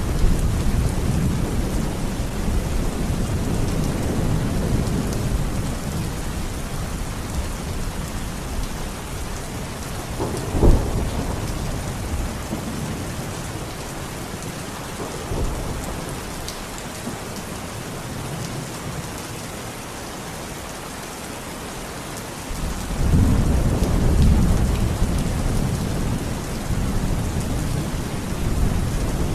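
Steady rainfall with rolling thunder. The low rumble fades over the first part, a single sharp thunderclap sounds about ten seconds in, and a new roll of thunder swells up about two-thirds of the way through.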